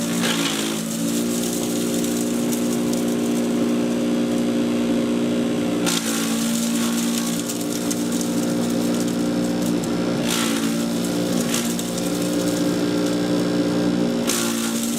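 Patriot 1.5-HP electric chipper shredder running steadily with an even motor hum, with a few short, harsher bursts of noise a few seconds apart, about six, ten and fourteen seconds in.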